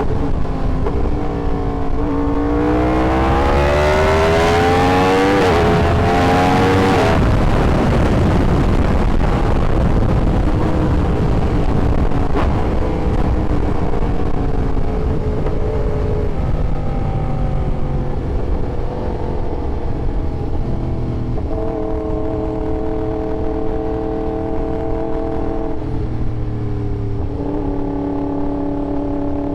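Yamaha R1 sport bike's inline-four engine accelerating, its pitch climbing for about five seconds before dropping sharply about seven seconds in. It then runs at lower, steadier revs over constant wind rush, holding level revs near the end.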